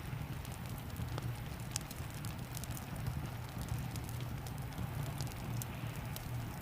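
Fireplace fire crackling with scattered sharp pops, mixed with steady falling rain and a constant low rumble.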